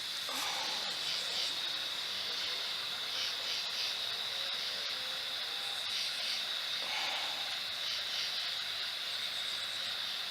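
Steady high-pitched hiss with a faint, even pulsing running through it.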